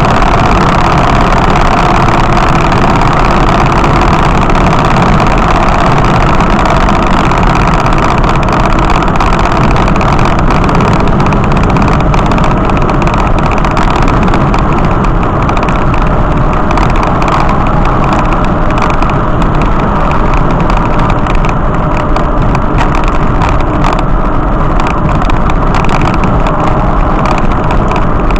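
Steady engine and road noise of a vehicle being driven, holding an even level throughout.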